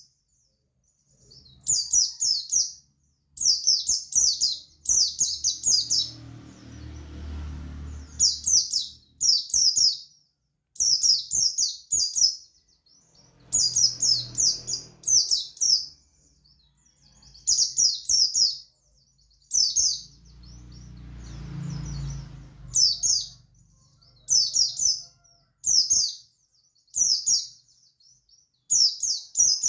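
A white-eye (pleci buxtoni) singing in its wild style: short, rapid, high twittering phrases, each under a second, repeated every second or two. A low rumble swells and fades three times in the background.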